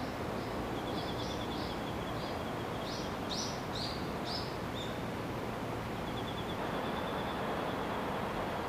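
Outdoor ambience: a steady noise hiss under a series of short, high bird chirps in the middle, with a rapid high trill twice.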